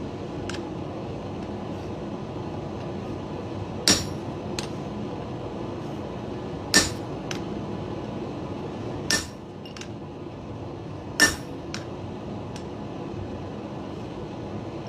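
Hammer striking an eyeball punch to stamp eyes into hot steel: four hard blows two to three seconds apart, each with a short metallic ring, with a few lighter taps between. A steady background rush runs underneath.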